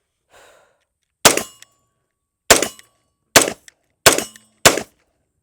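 Taurus TH9C 9mm pistol firing five shots at an uneven pace, each a sharp crack with a short ringing tail.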